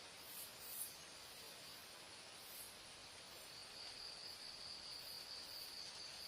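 Insects trilling steadily at one high pitch, getting stronger about halfway through, with short, very high chirps now and then.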